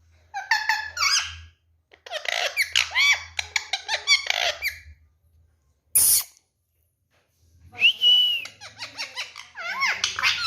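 Indian ringneck parakeet chattering in three bursts of squeaky, whistled calls that slide up and down in pitch. A short harsh rasp comes about six seconds in.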